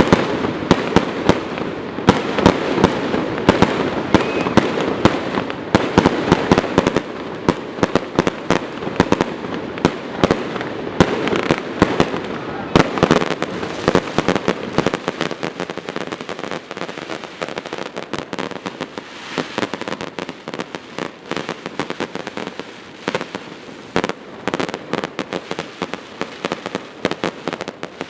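Fireworks going off in a rapid, continuous barrage of sharp bangs and crackling, many reports a second; the barrage is densest in the first half and thins somewhat after the middle.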